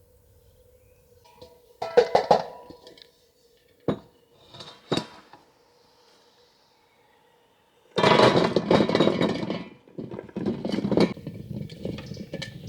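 Kitchenware being handled: scattered clinks and knocks, then a longer stretch of louder clattering in the second half.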